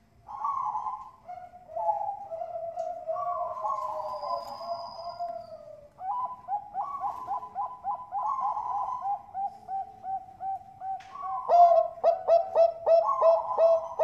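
Bangkok-strain zebra dove (perkutut) cooing: slurred, warbling coo phrases, then from about six seconds a quick run of short repeated notes, getting louder near the end.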